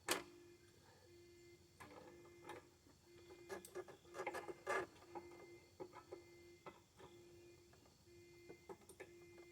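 Hands and tools working on a lawn mower: scattered light clicks and knocks of metal and plastic parts being handled, with one sharp knock at the start and a quick cluster about four to five seconds in, over a faint steady hum.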